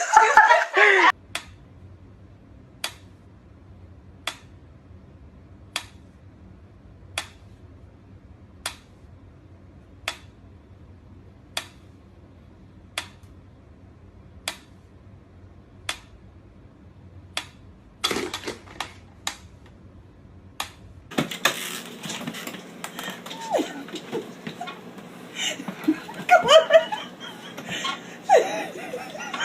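Sharp single clicks repeating evenly, about one every second and a half, over a faint low hum, with a quick flurry of clicks near the end of the run. Then the sound changes abruptly to a noisier scene with short voice sounds.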